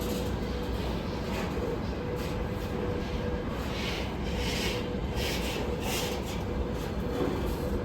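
Container train hauled by a VL80S electric locomotive rolling past: a steady rumble of wheels on rail with a faint constant hum. Short sharp metallic hisses and clacks repeat through the middle.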